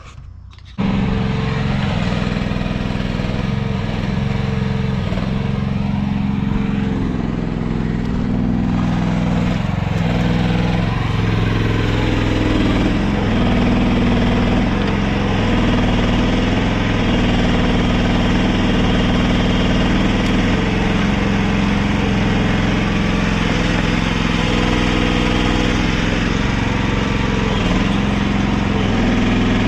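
Mini excavator's diesel engine running steadily under working load, its pitch rising and falling slightly as the hydraulics dig the trench. The engine sound starts abruptly about a second in.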